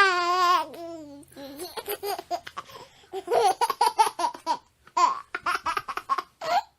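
Baby laughing: a loud, wavering squeal that falls in pitch at the start, then runs of quick, breathy giggles in short pulses.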